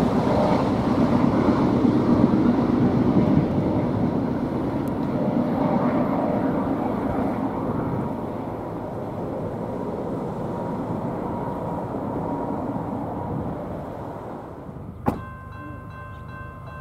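Train rolling past on the tracks, a steady rumble of wheels on rail that slowly fades as it moves away. About 15 seconds in there is a sharp click, after which only faint steady tones remain.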